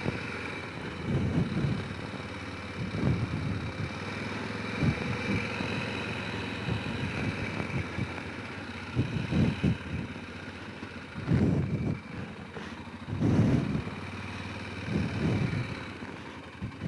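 Honda Rincon 650 quad's single-cylinder engine running slowly or idling with a steady low hum, with irregular low rumbling thumps every second or two.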